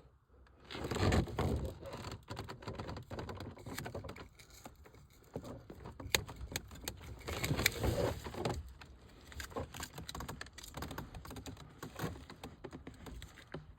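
Rustling and handling noise with many irregular small clicks, taps and knocks, as pipe fittings and tools are handled.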